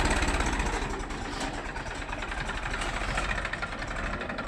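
Massey Ferguson 241 DI tractor's three-cylinder diesel engine running steadily, easing a little quieter about a second in.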